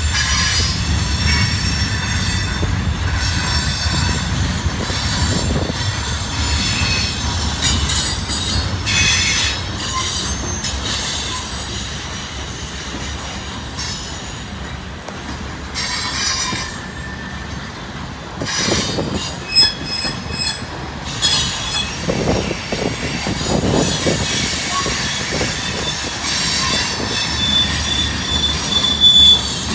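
Freight train cars, gondolas then covered hoppers, rolling past close by: a steady rumble of steel wheels on rail, with high-pitched wheel squeal that comes and goes. The squeal is strongest near the end, and a few knocks come about two-thirds of the way through.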